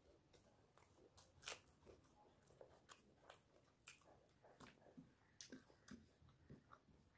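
Faint chewing of soft food: irregular wet mouth clicks and smacks, a few every second.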